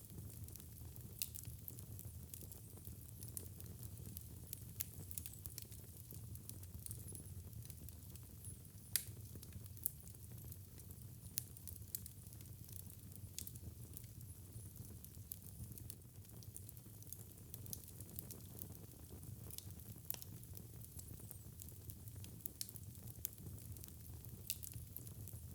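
Wood fire burning in a fireplace, crackling with irregular sharp pops over a low steady rumble, one pop louder than the rest about nine seconds in.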